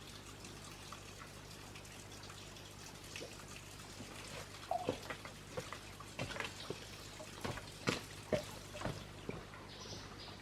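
Water dripping and trickling, with a run of sharp irregular clicks and taps starting about halfway through.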